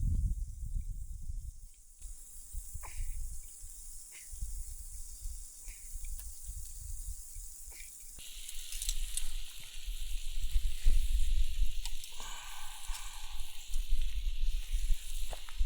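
Food sizzling on a Biji barbecue plate over a campfire, with scattered pops and crackles; the sizzle grows louder about eight seconds in. Wind rumbles on the microphone underneath.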